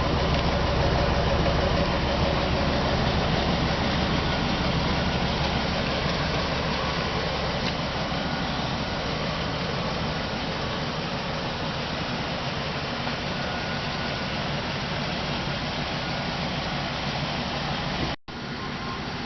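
1997 Chevrolet Suburban's 5.7-litre Vortec V8 idling steadily. The sound drops out for an instant near the end.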